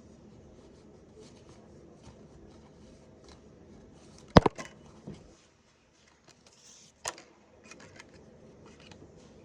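Quiet handling sounds with a sharp knock about four seconds in and a smaller click about three seconds later, like a hard object being set down or tapped.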